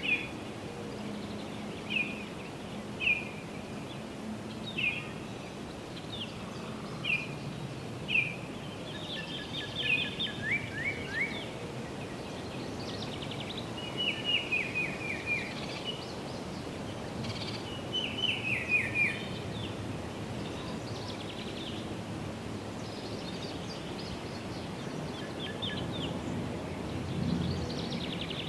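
Songbird calls: short, falling whistled notes, some single and some in quick runs of four or five, scattered through the stretch. A steady low hum of distant road traffic runs underneath.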